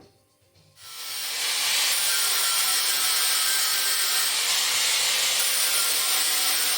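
Angle grinder working the car's thin sheet-steel bodywork: it spins up a little under a second in and then grinds steadily at one level.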